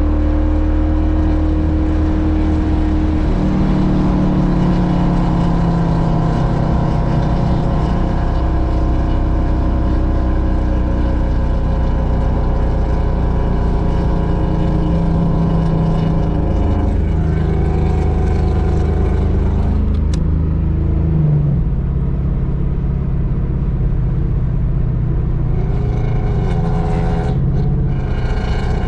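Vehicle engine running steadily, its pitch stepping up and down a few times.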